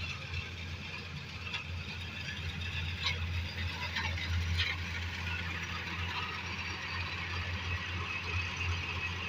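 Combine harvester engine running steadily with a low hum, with a few light clicks or rattles in the first half.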